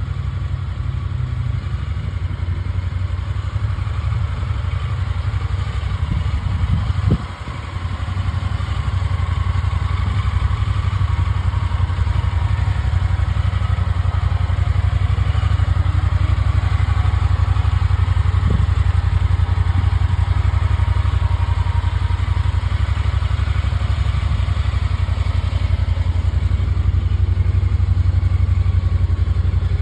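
Honda Pioneer 1000-5 side-by-side's 999 cc parallel-twin engine idling steadily, with a couple of light knocks about seven and eighteen seconds in.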